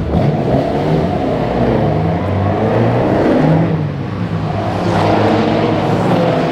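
Racing car engine at speed, revving with its pitch sliding up and down, briefly easing off about four seconds in before pulling again.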